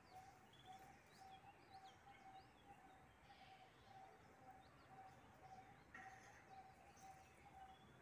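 Faint birdsong: scattered short high chirps, over a steady low note repeating about three times a second.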